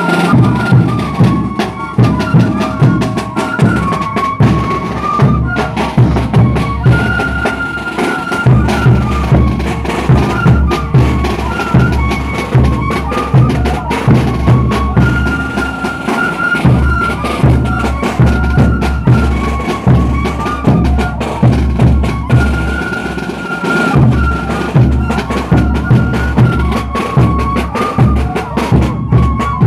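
Traditional festival band music: a repeating melody over steady, heavy bass drum beats. The low drum drops out briefly a few times and comes back.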